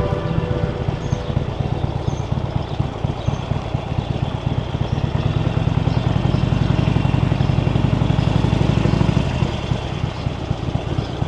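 Harley-Davidson Sportster Iron 883's air-cooled V-twin engine running under way, with a dense low pulsing beat. The engine grows louder for a few seconds past the middle, then eases off near the end as the throttle is rolled back.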